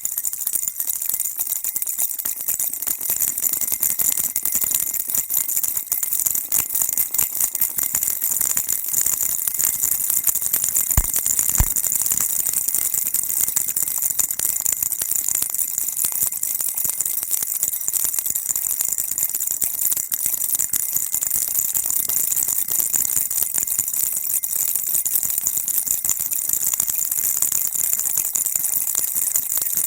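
Baby rattle shaken continuously, a dense, steady high-pitched rattling. Two brief soft knocks come about eleven seconds in.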